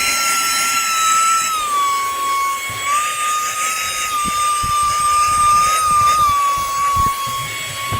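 VNOST USB-C handheld vacuum running on its high setting: a steady high motor whine with rushing air. Its pitch drops about a second and a half in and rises again about three seconds in, with a few soft knocks later on.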